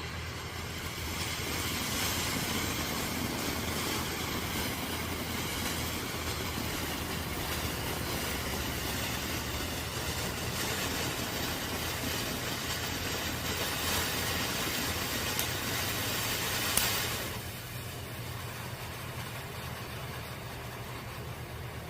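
Wenda 'Silent Mode' firework fountain burning with a steady hiss, a single sharp pop near the end before it dies away quickly about seventeen seconds in.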